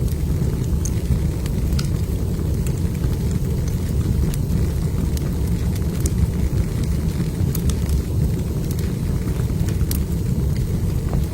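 Log fire burning in a fireplace: a steady low rumble with scattered small crackles and pops.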